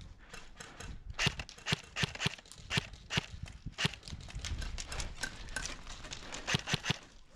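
Footsteps of a player walking at a steady pace on rough outdoor ground, about two or three steps a second.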